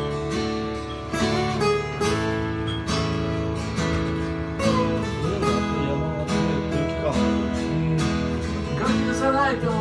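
Strummed acoustic guitar playing the intro of a slow love song, steady chords with a regular rhythm.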